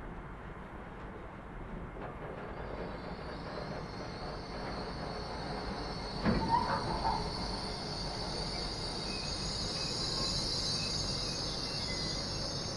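Freight train passing with a high wheel squeal that sets in about two seconds in and grows louder, over a steady rail rumble. A single sharp clank about halfway is the loudest sound.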